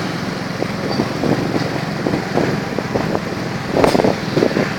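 Small motorbike engine running steadily while riding, with wind buffeting the microphone.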